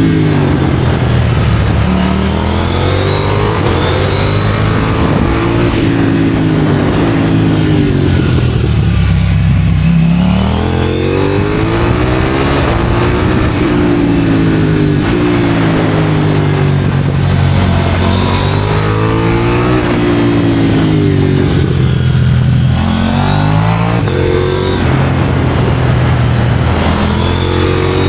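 KTM 790 Duke's parallel-twin engine through an IXRACE aftermarket exhaust, ridden hard: the revs climb and drop again and again as the bike accelerates and rolls off, with wind noise underneath.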